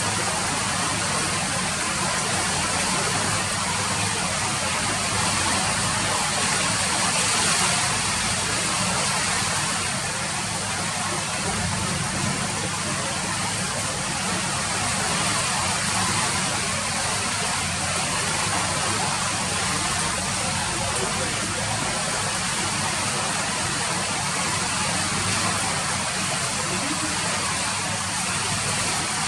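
Steady rain falling: an even, unbroken wash of noise with no single drops or thunder standing out.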